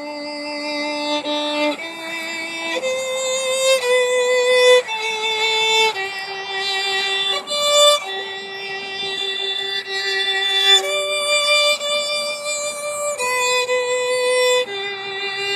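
Solo violin playing a slow melody of held, bowed notes with vibrato, moving to a new note about once a second.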